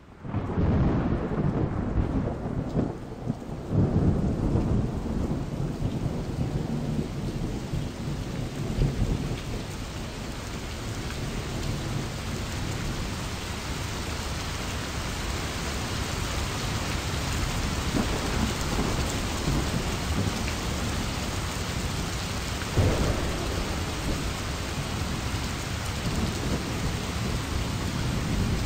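Steady heavy rain with low rolls of thunder, the strongest rumbles a few seconds in and again late on.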